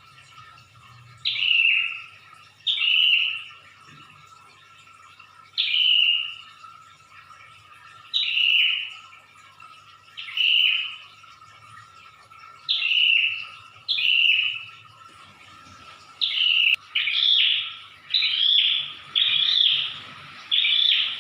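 Prinia (prenjak) singing its loud 'ngedor' song: a dozen short, sharp falling notes, about one every one to two seconds, coming faster and closer together near the end. A steady faint hum runs underneath.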